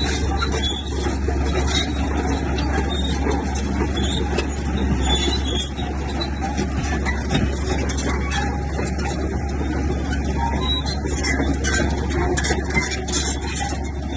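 Bulldozer's diesel engine running steadily under load with a deep constant drone, with rapid metallic clatter over it.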